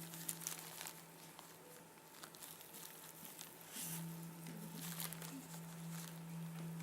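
Knife slicing through a kitchen sponge: short, scattered scratchy cuts. A low steady hum sounds briefly at the start and again from about four seconds in.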